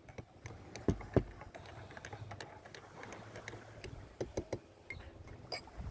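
Table clatter: scattered small clicks and knocks, with two louder thumps about a second in and a few more clicks near the end, over a low steady hum.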